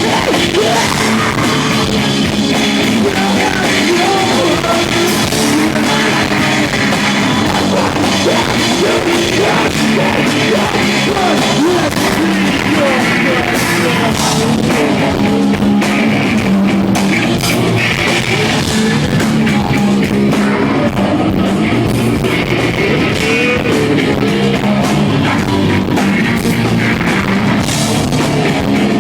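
Live rock band playing loudly, with electric guitars, drum kit and some singing, recorded from the audience on a small handheld device.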